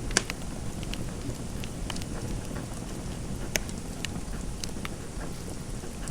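Fireplace fire crackling: a steady low rumble with irregular sharp pops and snaps, the loudest just after the start.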